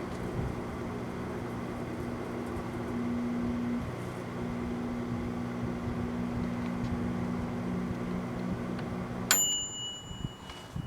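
A 1985 Montgomery Ward microwave oven running with a steady low hum, which stops about nine seconds in as the oven's bell dings once and rings out.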